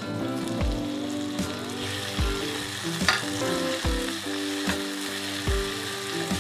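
Tomato wedges sizzling in hot oil as they are stirred around the pan with a silicone spatula. The sizzle thickens about two seconds in. Under it runs background music with a steady beat.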